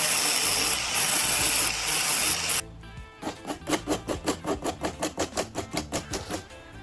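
A power tool running loudly with brief pauses, cutting off about two and a half seconds in. A quicker, quieter series of rhythmic clicks follows, about four a second, for roughly three seconds.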